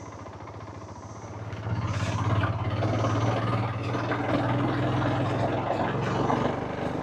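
Motorcycle engine running while being ridden, getting louder about two seconds in and then holding steady.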